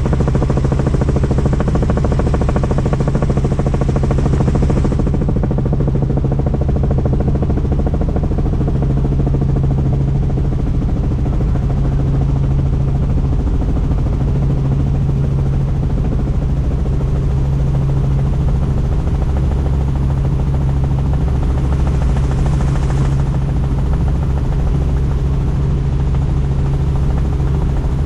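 Helicopter in flight, its rotor and engine running steadily, heard from inside a doors-off cabin with wind rushing past. The rush is louder for the first few seconds and again briefly near the end.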